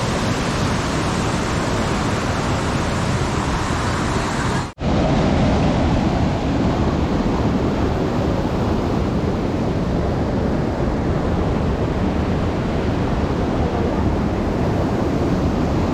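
Waterfall's rushing water: a loud, steady noise that breaks off for an instant about five seconds in, where the recording cuts.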